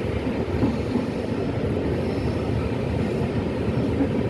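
A train running along the track at speed, giving a steady, dense low rumble.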